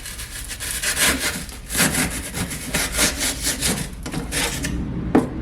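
Small hand saw cutting through hardened expanding foam to trim it flush with the paneling, in rough back-and-forth strokes about two a second that stop shortly before the end, followed by a single knock.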